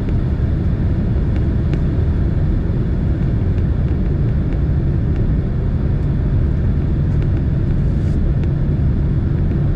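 Steady low rumble of engine and airflow noise inside the cabin of a Boeing 767 airliner descending toward landing. A low steady hum joins it about four seconds in.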